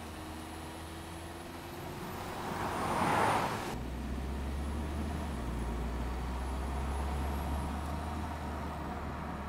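Motor-vehicle noise: a rushing swell that builds to a peak about three seconds in and cuts off suddenly, then a steady low rumble.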